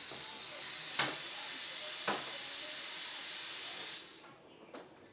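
A loud, steady hiss that cuts off suddenly about four seconds in, with two light knocks during it.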